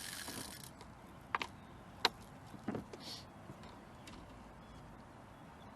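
A few sharp clicks and knocks over about a second and a half, with short hisses around them: fishing gear being handled in a boat.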